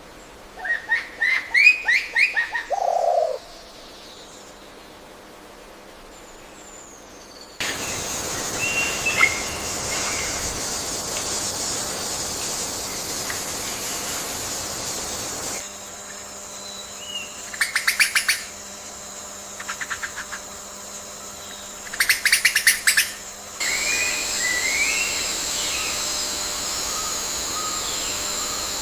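Wild birds singing and calling in forest ambience: a quick series of chirps with rising notes that ends in a lower falling call, then scattered calls and two bursts of rapid pulsed trills over a steady high hiss. The background changes abruptly several times.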